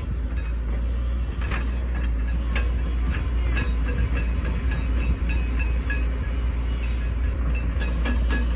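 Hitachi ZX110 MF excavator's diesel engine running steadily at work, with a few sharp knocks and short high squeaks from the machine's metal parts and hydraulics.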